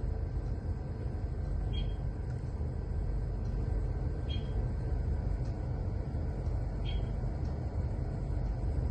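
Steady low rumble of a vessel under way, with a short high beep repeating about every two and a half seconds.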